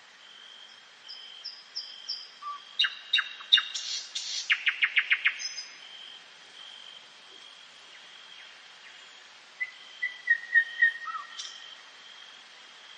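Songbirds singing in woodland: a phrase of quick, high notes about a second in that speeds into a fast trill, and another short run of notes about ten seconds in, over a thin, high note that keeps repeating.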